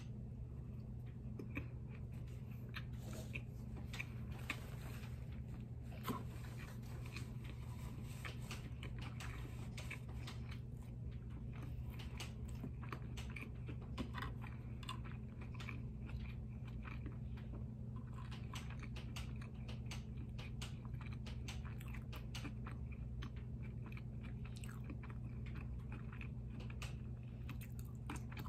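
Close-miked eating of a shrimp cheeseburger and curly fries: biting and chewing, with many small wet clicks and crunches. A steady low hum runs underneath.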